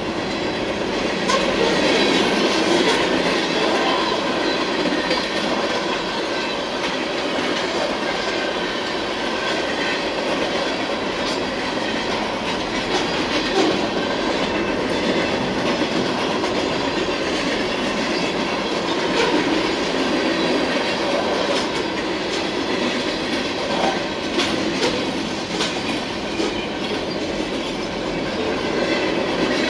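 Freight train cars rolling past at a steady speed: a continuous rumble of steel wheels on the rails, with clicking as the wheels pass over the track.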